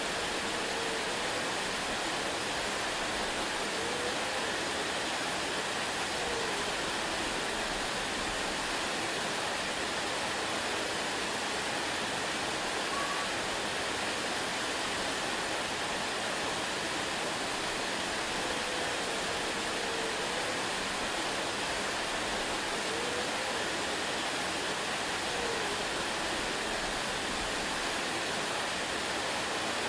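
Waterfall, water falling and splashing in a steady, even rush with no change in level. A few faint short whistle-like tones surface now and then.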